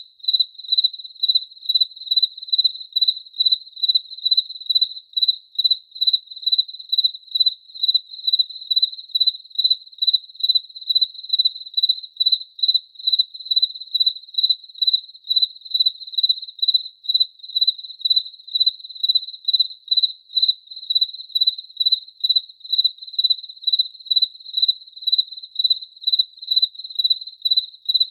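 A single cricket chirping steadily in a high, even pitch, at about two chirps a second.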